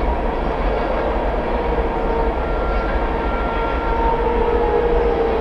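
A train rumbling past, with a faint, steady wail from a fire siren sounding weakly underneath. The speaker suspects the siren's rotators are stuck.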